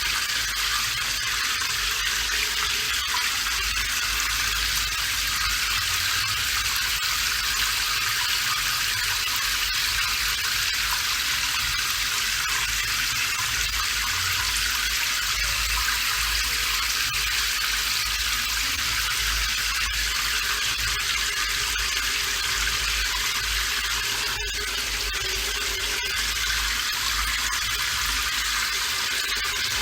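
Steady rain falling: a constant dense hiss with a low rumble underneath.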